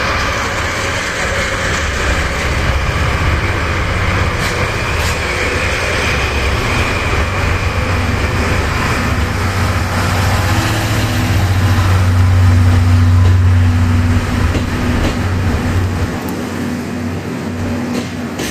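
DD51 diesel-hydraulic locomotive running, its engine rumble with a steady hum growing louder to a peak a little past the middle, then easing off.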